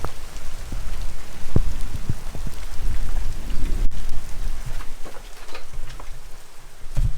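Heavy thunderstorm rain pouring down, with scattered louder taps of drops striking close by over a steady low rumble.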